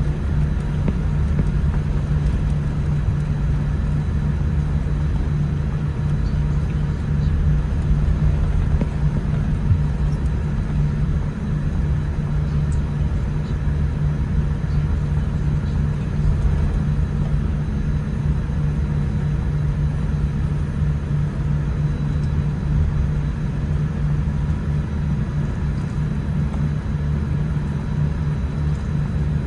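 Cabin noise of a Boeing 787-10 taxiing after landing: a steady low rumble from the idling engines, the air system and the wheels rolling, with faint steady tones above it.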